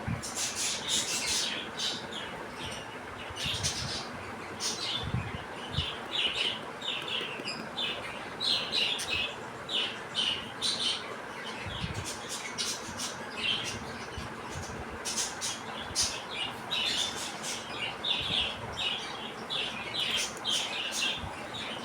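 Several young budgerigars chirping and chattering, many short calls a second, with now and then a soft thump.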